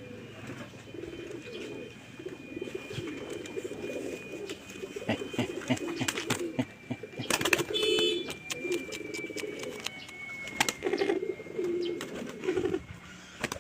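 Pigeons cooing over and over in low, rounded phrases, with scattered sharp clicks and knocks among them.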